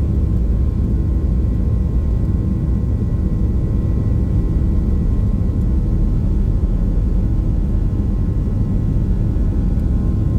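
Boeing 737-800 jet airliner's CFM56-7B engines and airflow, a steady loud rumble with a few held steady tones above it.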